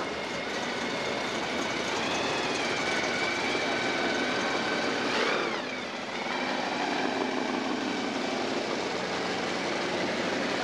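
Hot-rod V8 engines, some supercharged, running as the street machines drive slowly past one after another. There is a short falling sweep and a small dip in loudness about halfway through.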